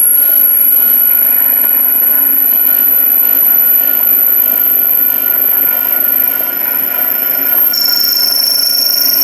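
Wen mini lathe running while a drill bit drills into the centre of the spinning wood: a steady high-pitched whine over a grinding hum. A second, lower squeal joins near the end.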